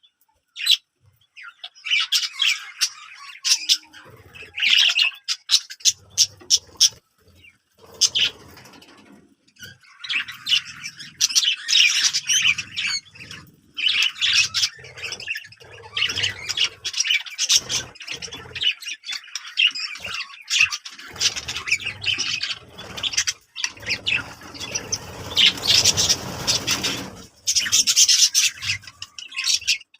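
Birds chirping and squawking in rapid, irregular runs of short calls, with low rustling or scratching noises among them.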